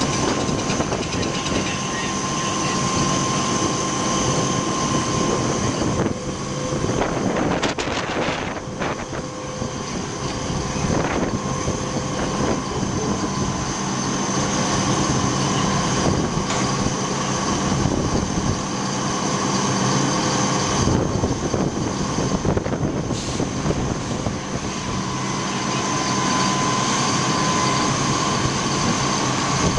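Fire engine running steadily at the scene: a low engine drone with a steady high whine over it. A few brief knocks come through it.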